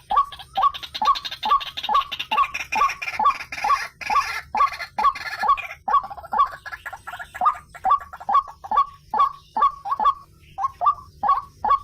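White-breasted waterhen calling, a fast string of short, loud, downward-dropping "ruak" notes, about two or three a second, with a brief pause near the end.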